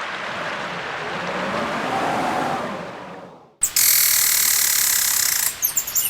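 Blizzard wind howling in gusts, its pitch rising and falling, which fades out. Then a sudden cut to a loud, bright hiss, broken near the end by quick high chirps.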